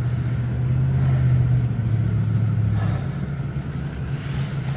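Car engine and road noise heard from inside the moving car, a steady low drone that eases slightly near the end while a rushing hiss comes in.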